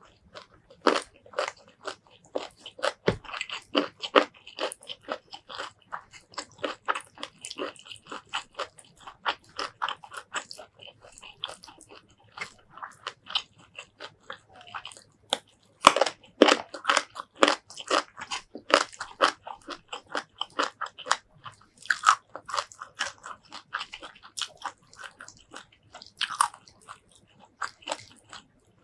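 Close-miked chewing and biting of shrimp curry and rice: a quick, irregular run of wet mouth clicks and crunches, loudest about halfway through.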